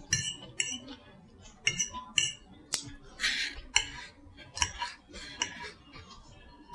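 Close-up eating sounds: irregular crunchy chewing of Caesar salad and cauliflower-crust pizza, with a single sharp click of a fork on the plate about three seconds in.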